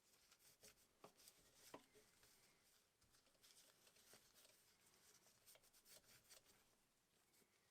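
Near silence with faint rubbing or scraping and scattered light clicks, like small hand work.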